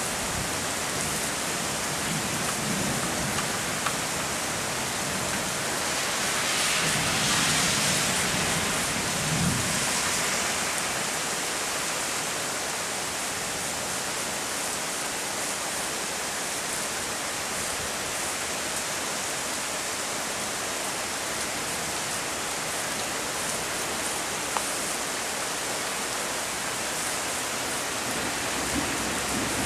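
Steady heavy rain falling in a thunderstorm, briefly heavier and hissier for a few seconds about seven seconds in.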